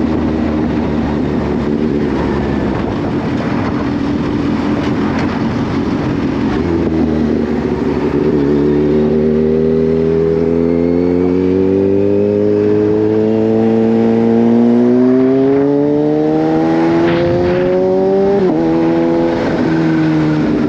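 Kawasaki Z H2's supercharged inline-four engine under way. At first it is mixed with wind noise; about seven seconds in, the engine pitch climbs slowly and steadily for some ten seconds as the bike accelerates, then drops suddenly near the end on an upshift and settles.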